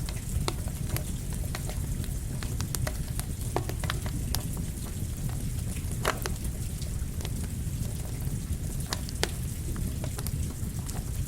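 Campfire crackling, with sharp irregular pops a few times a second, over a steady hiss of rain and a low rumble.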